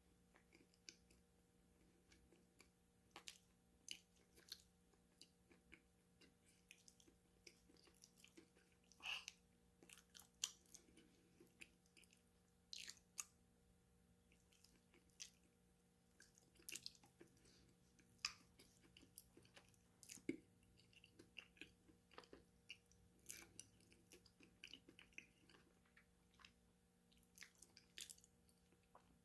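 A person eating snacks close to a microphone: irregular crisp crunches and soft chewing, some bites much louder than others, over a faint steady hum.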